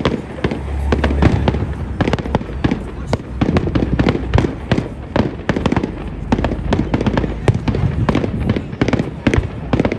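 Fireworks going off in rapid succession: a dense run of bangs and crackling reports, with deep booms underneath.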